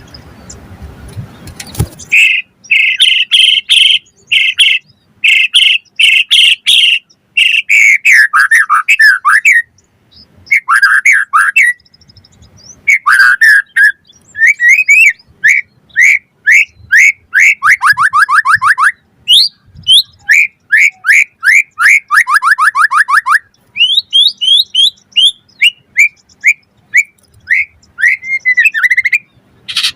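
White-rumped shama singing loudly in varied phrases of clear whistles, broken by fast runs of repeated falling notes. The song starts about two seconds in.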